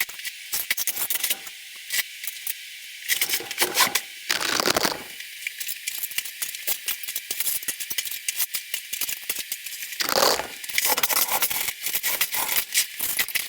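Broken ceramic tile pieces clinking and rattling as they are gathered up and dropped into a container, with two longer rushes of sliding, pouring debris about four and a half and ten seconds in.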